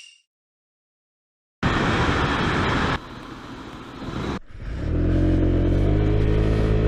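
A Honda PCX 125 scooter's single-cylinder engine running steadily at an even pitch, from about five seconds in. Before it come a short ringing tone that dies away, a silent gap, and a burst of rushing noise.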